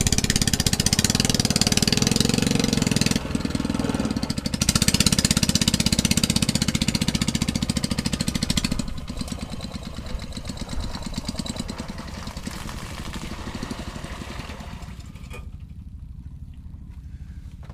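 A small engine running with a fast, even firing pulse, dropping in level about nine seconds in and then fading away.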